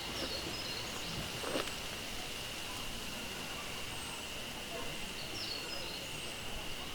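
Woodland ambience: a steady high insect drone with two short bird chirps a few seconds apart, and a soft knock about a second and a half in.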